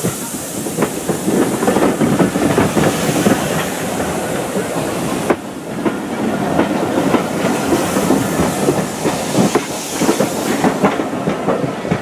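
Steam-hauled train running by, its wheels clattering over the rail joints, with a steam hiss that fades over the first few seconds.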